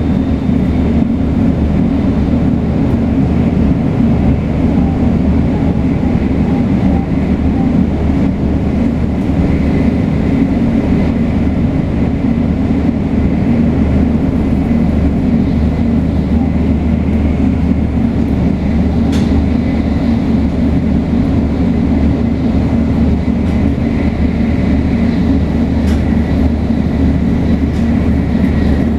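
Steady running noise heard on board a 500 series Shinkansen train: a loud, even rumble of the car under way.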